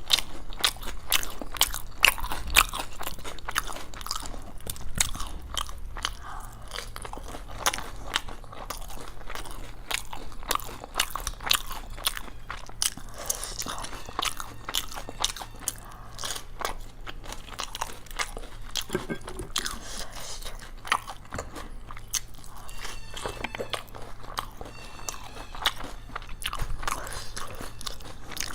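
Close-miked eating: crisp bites and crunching chewing of fried Indian snacks, a dense, irregular run of sharp crackles and snaps with no talking.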